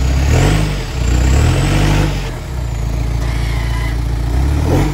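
Off-road 4x4 engine running under load and revving in surges, with the pitch rising and falling twice in the first two seconds and once more near the end.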